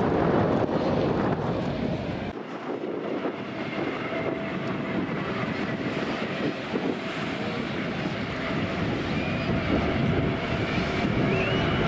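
Wind rushing and buffeting the microphone, a steady noisy roar; the deep rumble drops away abruptly about two seconds in.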